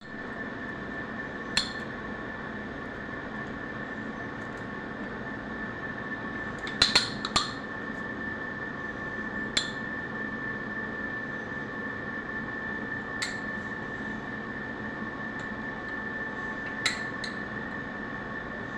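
Metal tools and engine parts clinking against each other a few times during engine assembly, with a small cluster of clinks near the middle, over a steady background hiss and a thin high whine.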